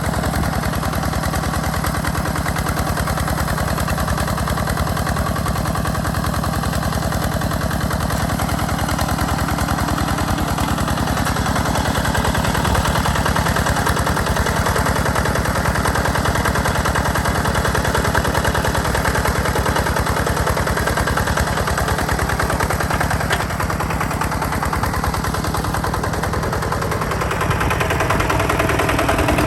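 Single-cylinder diesel engine of a two-wheel walking tractor (power tiller) running steadily with a rapid, even chugging beat; the tone shifts slightly near the end.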